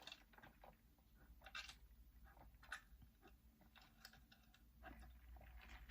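Faint chewing of a cheeseburger, heard as soft, irregular mouth clicks.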